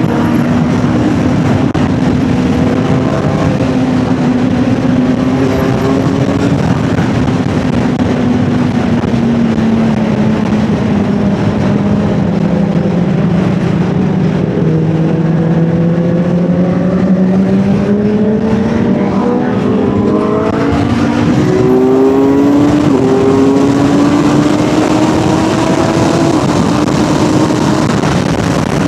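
Sport motorcycle engine running at speed under heavy wind noise on the rider's microphone; the engine note sinks slowly over the first half, then rises in short steps about two-thirds of the way in.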